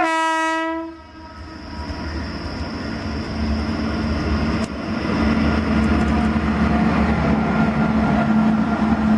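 WAP-5 electric locomotive running light: a single horn blast of about a second, cut off sharply. Then its running noise grows steadily louder as it draws nearer, with a steady hum under it.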